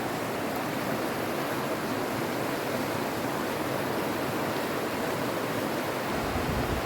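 Steady rush of flowing water, an even hiss with no breaks, with a low rumble joining about six seconds in.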